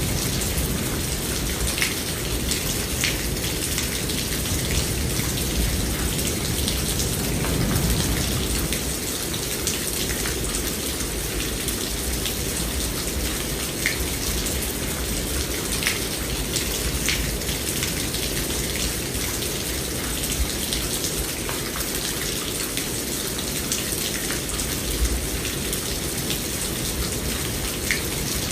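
Steady rain falling, with scattered individual drops ticking. A low rumble of thunder dies away over the first several seconds.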